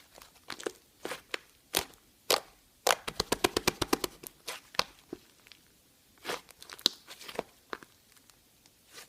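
Slime being squeezed and pressed by hand, giving scattered sharp pops and clicks, with a quick run of about ten pops a second about a third of the way in.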